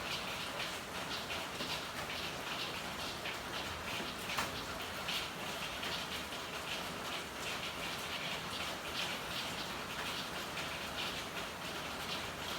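Rain falling in an alley: a steady hiss with a dense patter of drops spattering on hard surfaces, and one sharper drop tick about four seconds in.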